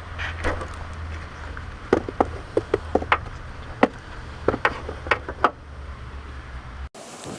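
A string of short, sharp metallic clinks and knocks, about a dozen in quick succession, some ringing briefly, as tools and parts are handled during engine removal, over a steady low hum.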